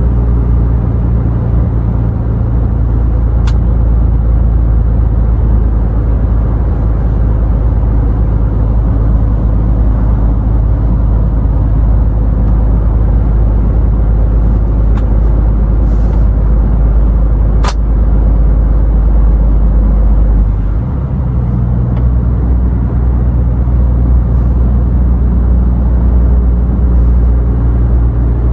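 Scania truck engine running steadily under way, a continuous low hum over road and tyre noise. A sharp click sounds about two-thirds of the way through, and soon after the low hum briefly dips and changes pitch.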